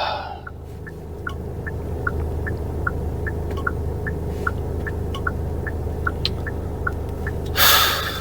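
Car turn-signal indicator clicking steadily, about three clicks a second, over the low hum of the taxi's engine and road noise inside the cabin. A short burst of noise comes near the end.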